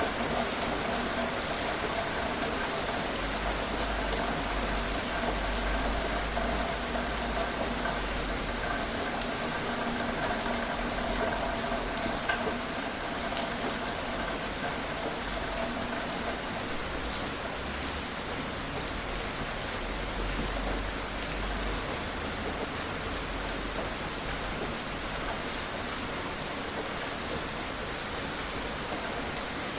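Gentle rain falling steadily: an even hiss of rain on surfaces with scattered individual drops ticking, no thunder.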